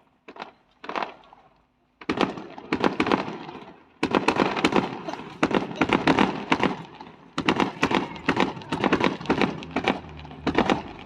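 Aerial fireworks bursting: a few separate bangs in the first two seconds, then a dense, rapid barrage of overlapping bangs from about two seconds in.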